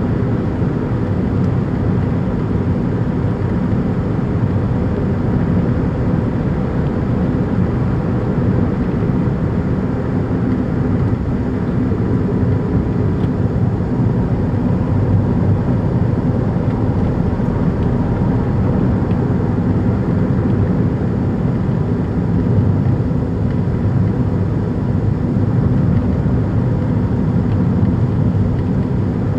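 Daihatsu Move Custom (L175S) with its 660 cc three-cylinder engine running, a steady low rumble with no breaks. The noise is typical of the raised engine noise that a worn engine mount with a torn bushing lets through into the car.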